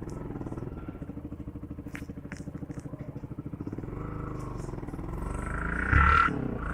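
Motorcycle engine idling with an even pulse, two light clicks about two seconds in, then revving up to its loudest about six seconds in.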